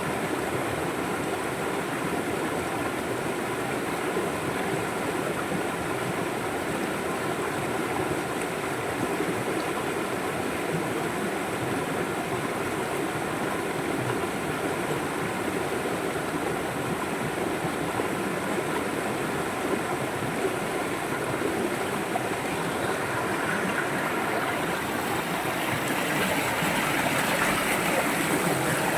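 River water flowing steadily, growing a little louder and brighter near the end.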